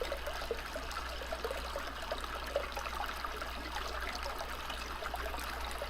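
A stream trickling and babbling steadily, with a steady low hum underneath.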